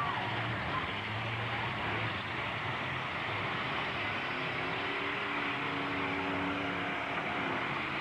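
Demolition derby trucks' engines running in a steady din, with one engine holding a higher, steady note from about four to seven seconds in.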